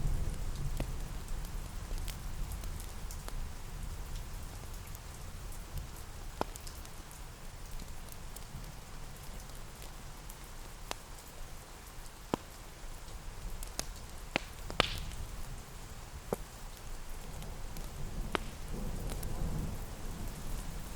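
Steady rain with a low rumble underneath that swells again near the end. Scattered sharp pops and crackles from a wood fire come every second or two.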